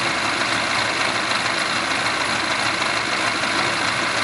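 Vintage Austin open two-seater's engine idling steadily.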